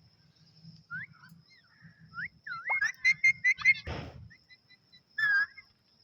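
Pet parrot giving short whistled chirps that rise in pitch, quickening into a rapid run of calls about three seconds in, followed by a brief thump and one more call near the end.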